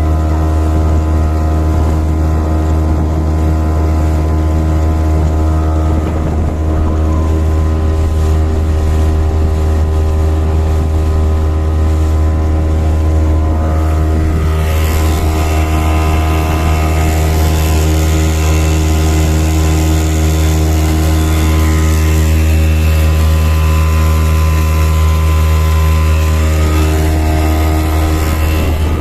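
Hangkai 6 hp outboard motor running steadily at an even speed, pushing a loaded boat. About halfway through a rushing hiss of wind or water joins the steady engine note.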